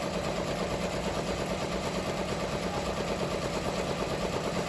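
Ricoma MT-1501 15-needle commercial embroidery machine stitching at speed: a steady, rapid, even rattle of needle strokes.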